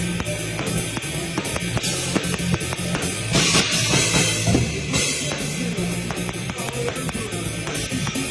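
Rock band rehearsing, led by a drum kit playing dense, fast hits with bass drum, with a cymbal wash from about three and a half to five seconds in.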